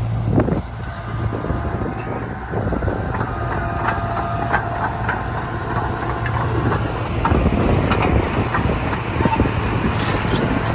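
Heavy diesel earthmoving machinery running steadily, with scattered metallic clanks and knocks throughout.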